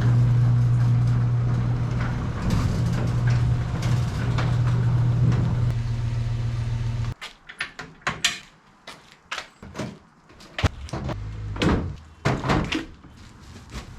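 Truck engine running with a steady low hum, switched off abruptly about halfway through. Scattered sharp clicks and knocks follow.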